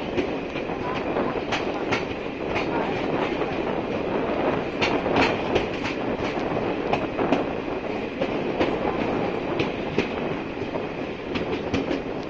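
Passenger train running, heard from on board its coach: a steady rumble of wheels on rail, with frequent, irregular sharp clicks of the wheels over the track.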